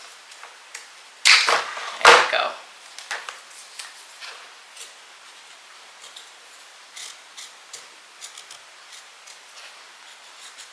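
Two sharp snips of hand pruning clippers cutting through a dahlia tuber, a little under a second apart, followed by faint clicks and rustles of handling.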